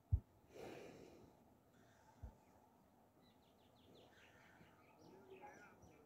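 Faint birds chirping in the second half over quiet outdoor ambience. A sharp low thump comes just after the start and a smaller one about two seconds in, with a short breathy rush about half a second in.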